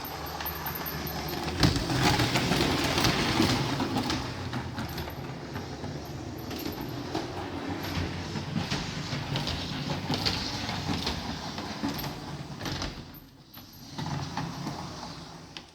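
Model railway train running around the layout: a steady rattle of wheels on the track with many small clicks, dying down near the end.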